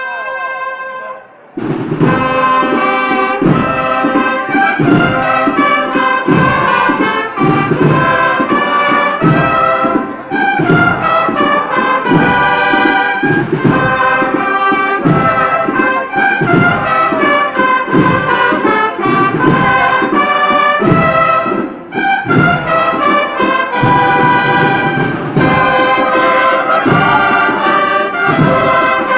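Brass band playing a Holy Week processional march, trumpets and trombones over a steady beat of about two strokes a second. The full band comes in about a second and a half in.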